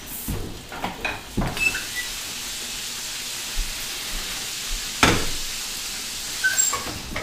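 Sunchokes searing in a hot pan, a steady sizzle throughout. Over it come several knocks and clanks of cookware and the oven door, the loudest about five seconds in as the oven is opened.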